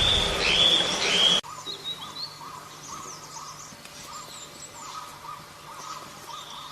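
Wild birdsong that includes the selendang biru. For about the first second and a half, loud high whistled phrases sound over a noisy background. The sound then cuts abruptly to a quieter recording of many short calls repeating at a lower pitch, with faint high chirps.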